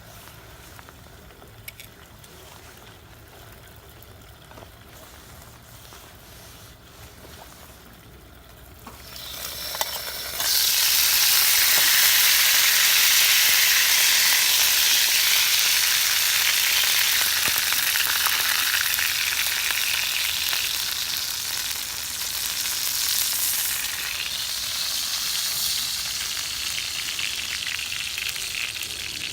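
Food hitting a hot pan and sizzling loudly. The sizzle starts suddenly about a third of the way in, after a quiet stretch, then eases off a little while it keeps frying.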